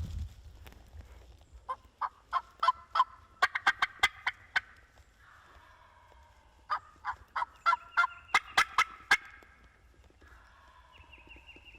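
Hunter's turkey call sounding two runs of loud, sharp yelping notes, each about eight to ten notes long and a couple of seconds apart, to draw a gobbler.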